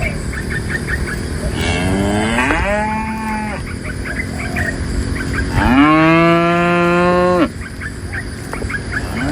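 Cows mooing: two long moos, each rising at the start and then held, the second louder and longer, with another moo starting at the very end.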